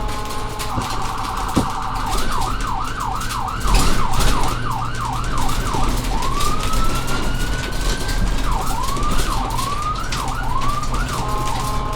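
Electronic police siren sound effect cycling through its tones: a fast warble, then a quick repeating yelp of about three sweeps a second, a single slow rising wail around the middle, and more quick yelps near the end.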